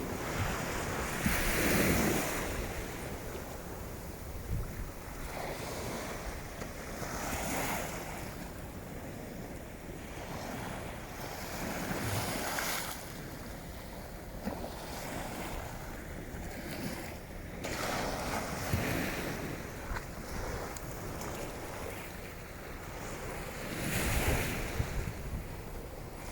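Waves washing onto the beach, a swell of surf about every five to six seconds, with strong wind buffeting the microphone as a steady low rumble.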